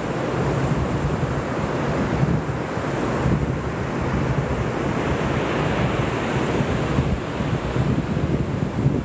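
Ocean surf washing onto a beach with wind buffeting the microphone, a steady rush of noise with gusty low rumble.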